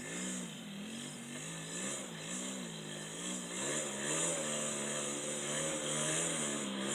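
Motocross motorcycle engine revving, its pitch rising and falling over and over as the throttle is worked.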